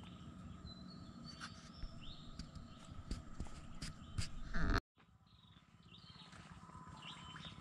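Outdoor riverbank ambience: birds chirping over a steady high-pitched drone, with scattered footstep clicks. A short loud rumble comes about four and a half seconds in, then the sound cuts out for a moment and returns quieter with the chirping.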